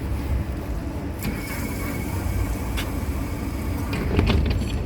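Low-floor 71-911EM tram car standing at its terminus with a steady low hum. About a second in there is a hiss with a thin steady tone that lasts until nearly three seconds, and a few clicks come near the end.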